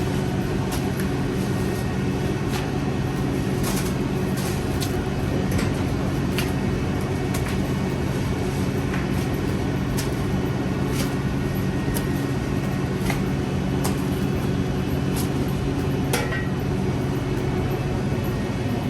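A steady mechanical drone with a constant low hum, scattered with short clicks and ticks.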